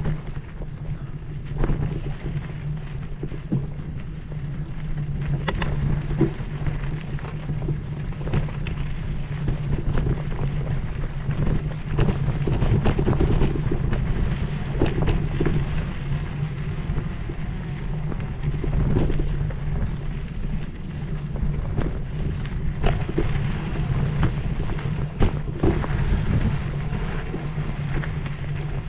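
Wind buffeting the microphone over a steady low hum, with scattered knocks and rattles throughout.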